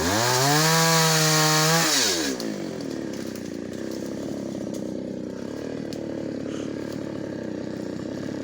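Two-stroke chainsaw held at high revs, then throttled off about two seconds in and left idling steadily.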